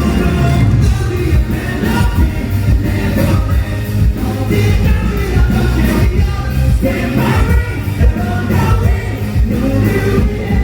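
Live pop-rock band playing with drums, bass and guitars, and a voice singing over them.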